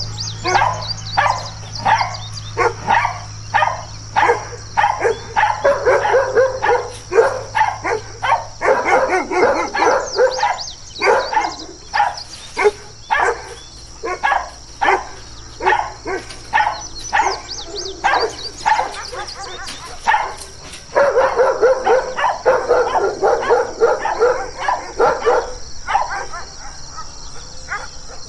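Guard dogs barking aggressively in a long run of rapid, repeated barks, with stretches where the barks crowd together and overlap.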